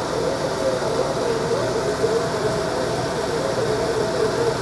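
Sauerkraut with pork cracklings frying and simmering in an open pot on a gas stove: a steady, even sizzle with a low wavering hum beneath it.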